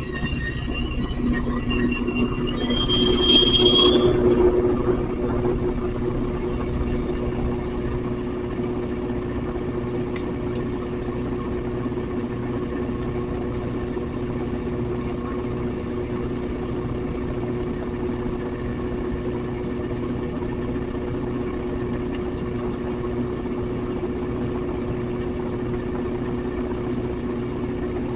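Train running with a steady low hum, and a brief high-pitched squeal about three seconds in.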